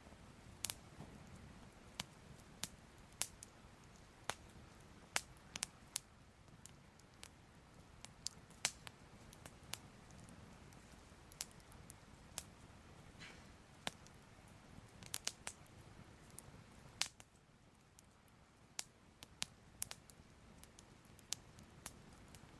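Fire crackling softly: irregular sharp pops and snaps, about one or two a second, over a faint low rumble.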